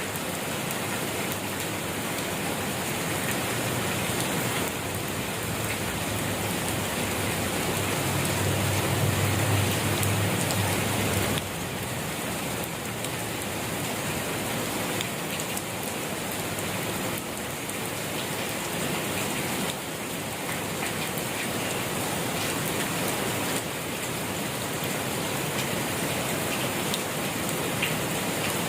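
Steady rain falling, an even hiss of drops on surfaces. A low rumble swells in the middle and then stops abruptly.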